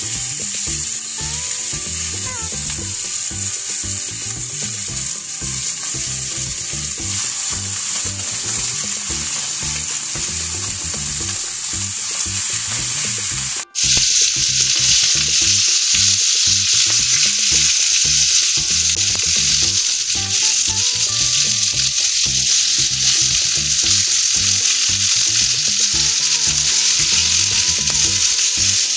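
Chicken pieces sizzling as they fry on a flat stovetop griddle, a steady hiss. It drops out for a moment a little before halfway, then comes back louder.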